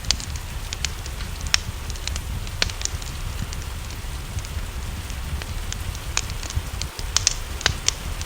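Wood fire crackling, with sharp irregular pops, over a steady hiss of rain and a low rumble.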